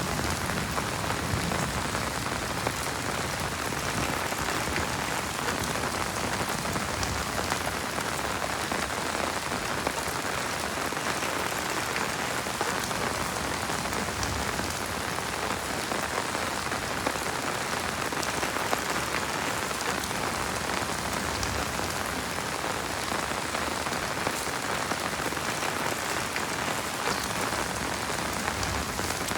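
Heavy rain falling steadily, with scattered drops ticking close by.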